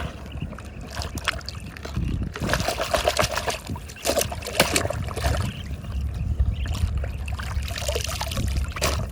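Water trickling and splashing in uneven spurts.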